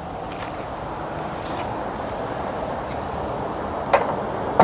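Steady rushing noise with no distinct pitch, broken by two sharp clicks about half a second apart near the end.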